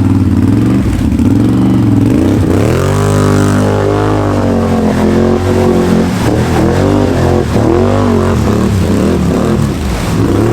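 Can-Am Outlander 850 XMR's V-twin engine with an MBRP performance exhaust, revving hard as the ATV pushes through a deep, rutted mud hole. The revs climb about two and a half seconds in, then rise and fall unevenly over and over.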